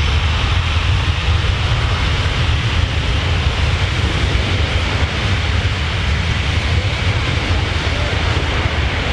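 Four turbofan engines of a C-17 Globemaster III jet transport running loud and steady as it comes in to land, with a deep rumble under the jet noise.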